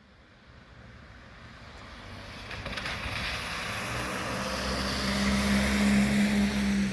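A motor vehicle approaching on the street, its tyre hiss and low engine hum growing steadily louder and loudest near the end.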